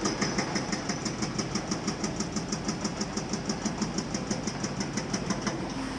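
Excavator-mounted hydraulic rock breaker hammering stone in rapid, even blows, several a second, over the excavator's running diesel engine.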